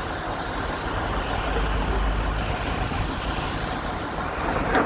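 Steady low rumble of a motor vehicle running, under an even wash of outdoor noise; the rumble swells briefly about a second in.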